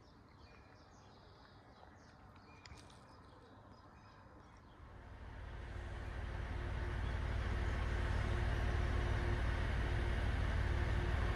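Snälltåget sleeper train, hauled by an electric locomotive, approaching: a low rumble of wheels on rails builds from about five seconds in and grows steadily louder, with a steady hum joining it.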